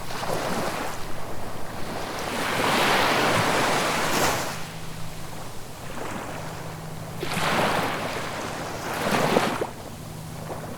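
Ocean waves surging and washing in, several swells rising and falling, the biggest about two to four seconds in, with a faint steady low hum underneath.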